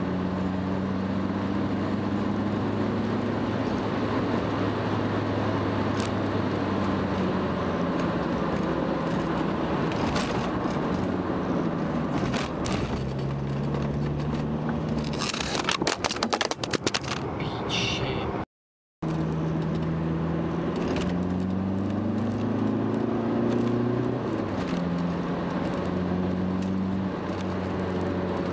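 Car engine and road noise heard from inside the cabin while driving, the engine's pitch rising and falling with the revs. About halfway through, a burst of crackling and scraping noises, then the sound cuts out for about half a second.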